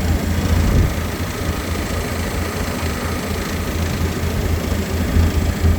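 Tour boat's engine running, a steady low hum.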